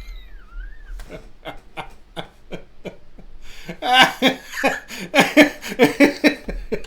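People laughing hard in a long run of quick, repeated ha-ha pulses, getting louder about four seconds in.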